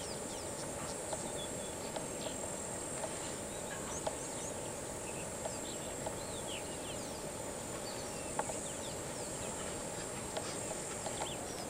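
Outdoor bush ambience: a steady high-pitched insect drone, with scattered short bird chirps and calls throughout.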